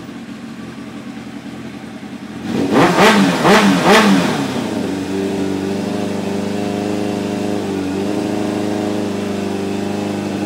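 Kawasaki ZX-7R's inline-four engine running during its first start-up after a carburettor cleaning: revved three times in quick succession about three seconds in, then settling into a steady idle.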